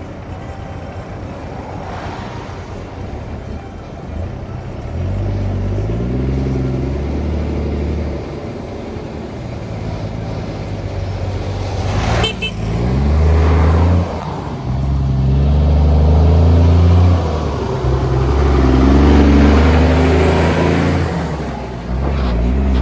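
Truck engine accelerating hard, its pitch climbing and dropping back several times as it shifts up through the gears, with a short sharp knock about halfway through.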